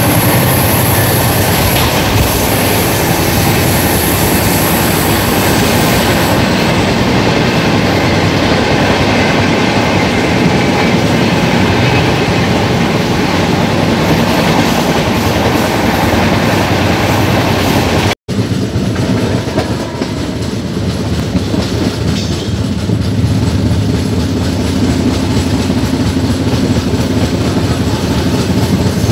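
Double-decker express train running on the rails, with loud, steady rumble and wheel clatter. About two-thirds of the way through, the sound cuts off for an instant and comes back slightly quieter.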